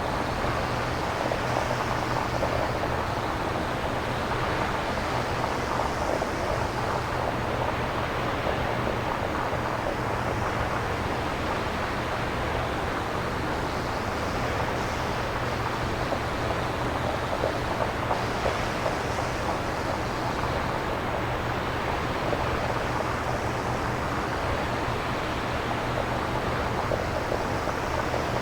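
Synthesized nature-sound noise: a steady, even rushing like surf or wind, swelling slightly brighter every few seconds over a constant low hum.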